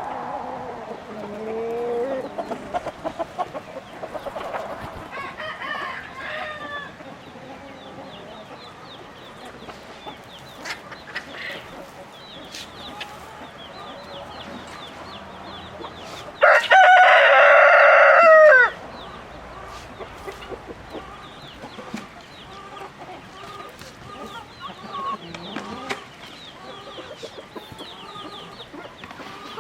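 A flock of chickens clucking, with many short high chirps throughout. Just past the middle, a rooster crows once loudly for about two seconds.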